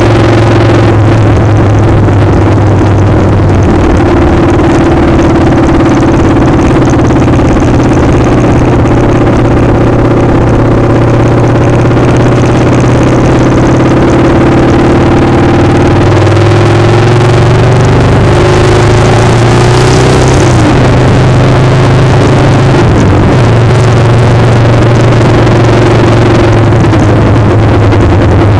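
Motorcycle engine running steadily under way, with loud wind noise on the microphone. About halfway through, the engine pitch shifts, dipping and rising a few times, then settles again.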